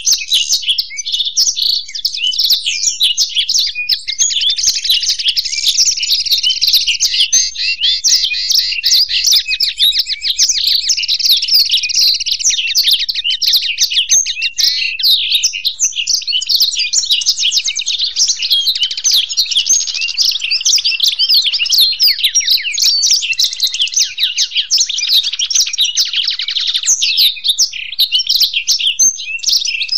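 Blackthroat (black-throated canary) and European goldfinch songbirds singing without pause: a dense, continuous stream of rapid high twittering and trills.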